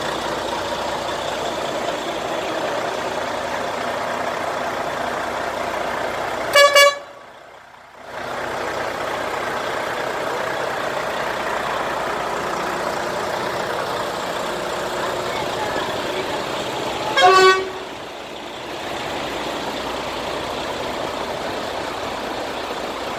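Two short, loud horn blasts from trucks in a passing procession, about ten seconds apart, the second lower in pitch, over a steady background of traffic and crowd noise.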